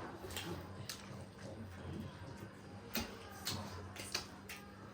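Eating sounds: chewing and smacking on wing meat off the bone, heard as scattered small clicks and wet smacks, over a faint steady low hum.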